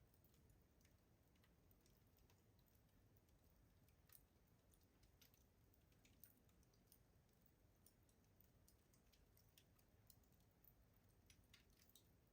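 Faint, irregular crackling of a wood fire burning in a rustic stove: sparse sharp clicks and pops, a few a second at most.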